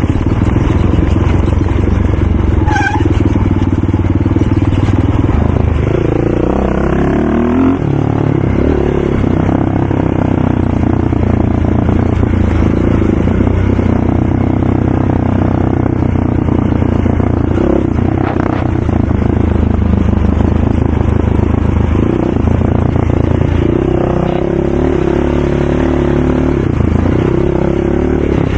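ATV engine running under load, its pitch rising and falling as the throttle is opened and eased off, twice going up in a clear rev.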